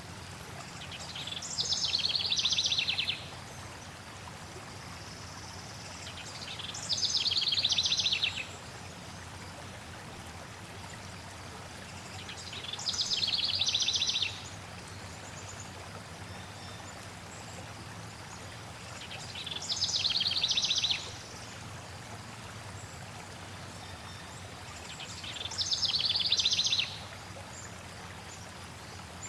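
A songbird repeats the same short trilled phrase five times, about every six seconds. Each phrase swells in loudness and ends abruptly. Underneath runs the steady rush of flowing water.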